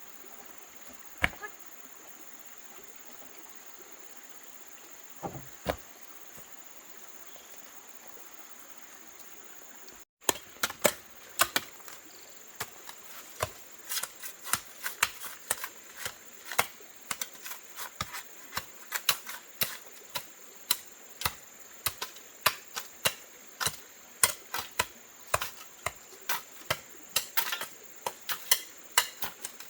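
Repeated sharp strikes of a hand tool on wood, irregular and several a second, beginning abruptly about ten seconds in after a few isolated clicks.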